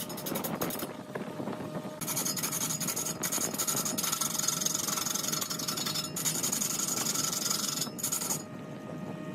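Wood lathe spinning a large wood blank while a turning tool cuts into it: a dense scraping, rasping hiss of the cut that starts about two seconds in, drops out briefly a couple of times, and stops near the end, over the steady hum of the lathe.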